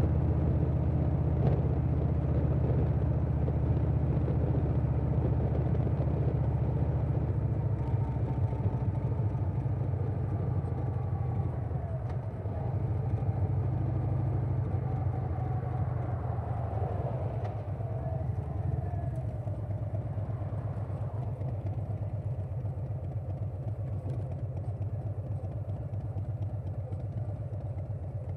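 A 2020 Harley-Davidson Softail Standard's Milwaukee-Eight V-twin runs steadily under way through a Vance & Hines Big Radius 2-into-2 exhaust, with wind noise over it. In the second half it eases off and grows somewhat quieter.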